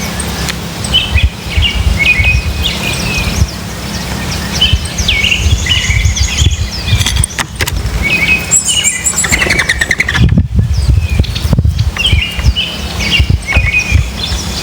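Several small birds chirping and calling in quick, short notes throughout, over a steady low rumble.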